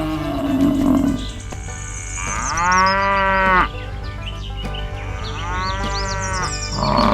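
A cow mooing twice, two long drawn-out moos about three seconds apart, over background music.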